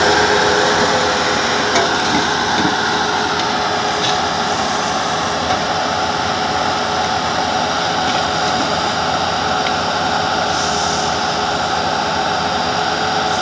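Engine of a skid-steer loader running a Bobcat 811 backhoe attachment, running steadily with a steady whine and a few light knocks.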